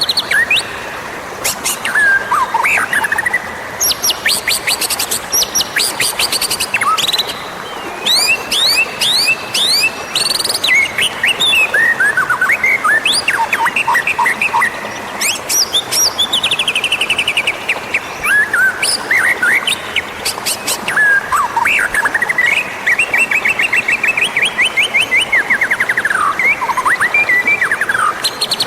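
White-rumped shama singing a continuous, varied song: loud whistled phrases mixed with fast trills and quick runs of sharp rising and falling notes, the kind of song played to provoke a wild or caged shama to answer.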